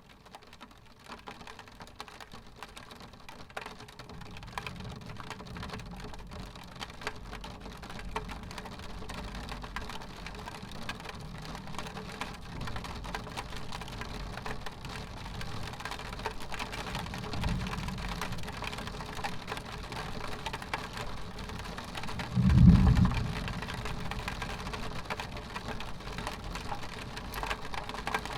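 Rain pattering on a glass window pane, building up over the first few seconds, with low thunder rumbling in the distance. One louder clap of thunder comes about three quarters of the way through.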